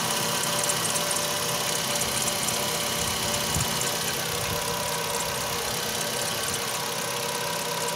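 Ravon R3 engine idling steadily, with a thin steady whistle from the alternator belt drive. This is the cold-start whistle that dies away after about a minute; the owner suspects the alternator's overrunning clutch or the belt rollers.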